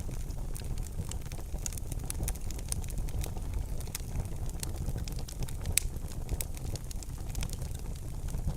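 Wood fire burning in a fireplace: a steady low rumble of flames with frequent sharp crackles and pops, one louder pop a little past the middle.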